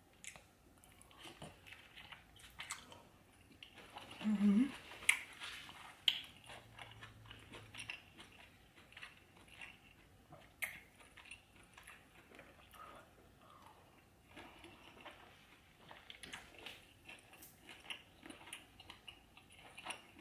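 A person chewing and biting seafood-boil food, with many small irregular crunches and clicks. A brief voiced hum comes about four seconds in.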